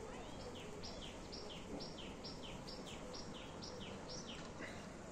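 A bird singing a run of about nine repeated falling notes, about two a second, over a steady outdoor background hiss.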